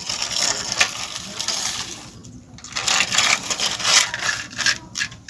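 Loose stones clattering and crunching as they are scooped and tipped, with two short pauses, about two seconds in and near the end.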